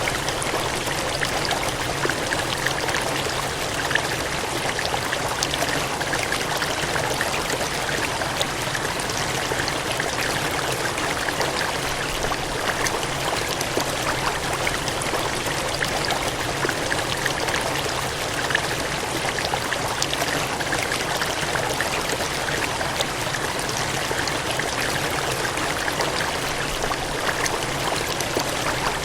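Water gushing and cascading in a steady, even rush with small splashes through it.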